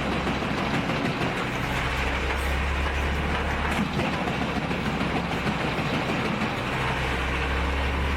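Heavy engine-driven machinery running steadily, with a deep drone that fades for a couple of seconds in the middle and then returns.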